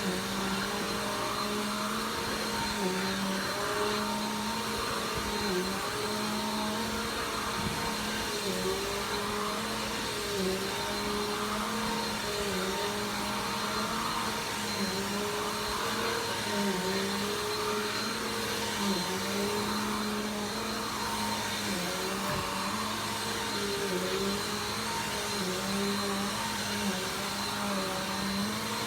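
Vacuum cleaner running steadily, its motor hum dipping briefly in pitch every second or two.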